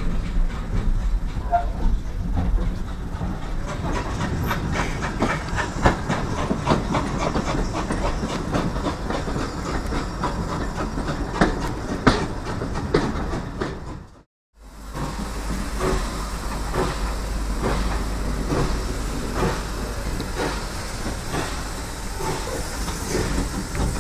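Heritage steam train's passenger coach running along the track: a steady low rumble with irregular clatter and knocks from the wheels on the rails. The sound drops out for a moment just past the middle.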